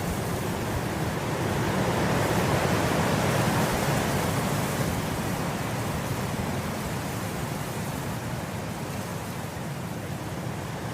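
Wind blowing through grass: a steady rushing that swells in a gust about two seconds in and eases off again after about five seconds.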